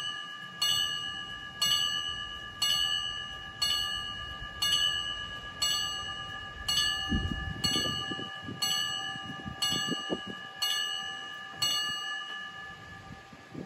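Railway level-crossing warning bell striking about once a second, each strike ringing on. The strikes stop about twelve seconds in, signalling that a train is approaching the crossing.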